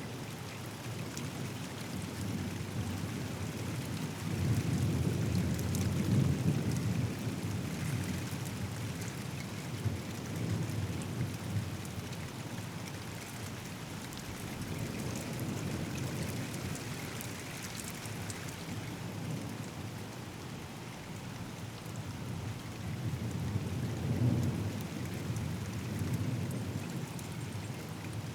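Steady heavy rain falling, with rolling thunder rumbling in the background that swells about five seconds in and again near the end.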